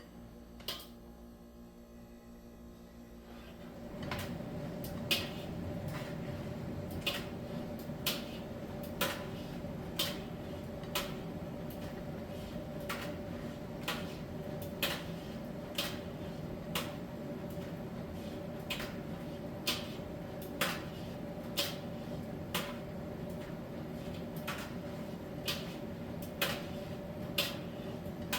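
Miele T1 heat-pump tumble dryer running in its drying stage: after a quieter pause, the drum starts turning again about four seconds in, with a steady hum and light clicks about once a second as the load tumbles.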